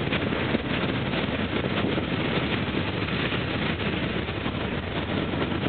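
Empty freight gondola cars rolling past: a steady rumble of steel wheels on rail, with irregular clicks and knocks throughout.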